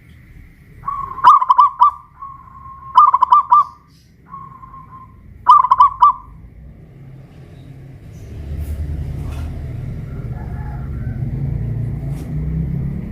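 Zebra dove (perkutut) cooing: three song phrases, each a held note breaking into a quick stuttering run of coos. After the third, a low rumble comes up about eight seconds in.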